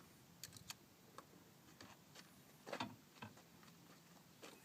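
A few scattered light clicks and knocks, the loudest about two and a half seconds in, as the portable patient lift's power connection is plugged back in and its parts handled.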